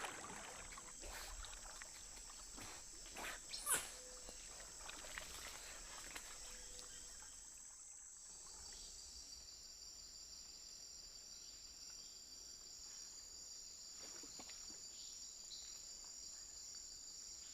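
Rainforest insect chorus: several steady high-pitched trills held at fixed pitches, one of them dropping out about nine seconds in. A few short faint clicks, the loudest about four seconds in.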